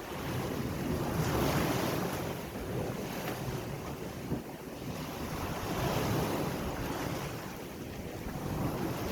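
Ocean waves breaking and washing on the shore, a rushing hiss that swells and falls back about three times, with wind noise on the microphone.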